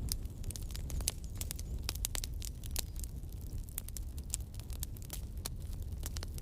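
Campfire burning, wood crackling and popping in frequent irregular snaps over a low steady rumble of the flames.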